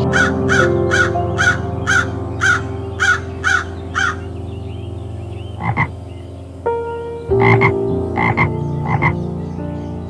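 Frog croaking: a quick, even run of about nine croaks, two a second, then after a pause a few more spaced croaks near the end. Background music of held tones plays underneath.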